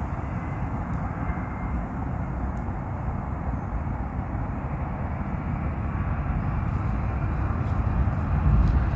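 Steady outdoor rumble of background noise, strongest in the low end, growing louder over the last couple of seconds.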